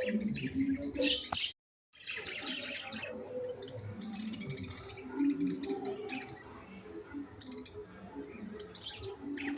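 Birds chirping in quick short notes, with music underneath. The sound drops out completely for a moment about a second and a half in.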